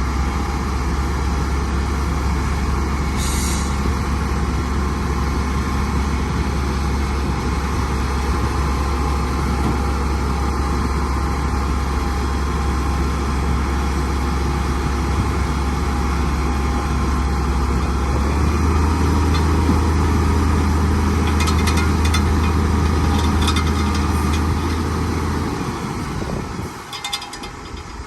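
Heavy earthmoving machine's diesel engine running steadily under work, its pitch stepping up slightly about two-thirds through and then dying away near the end, with a few brief high clicks and hisses.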